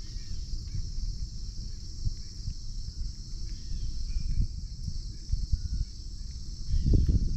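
A steady, high-pitched chorus of calling insects with a few faint bird chirps, over an uneven low rumbling noise that grows louder near the end.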